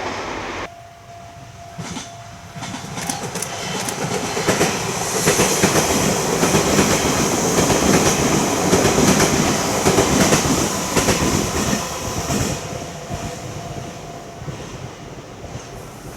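Electric train passing, its wheels clattering over the rail joints. It grows louder, runs past, and fades away toward the end.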